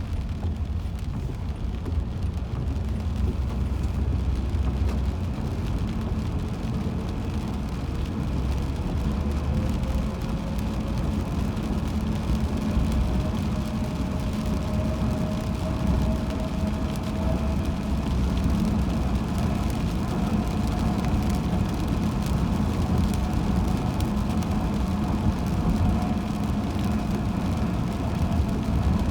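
Road noise of a car driving at speed, heard from inside the cabin: a steady low rumble, with a faint whine that slowly rises in pitch partway through and then holds.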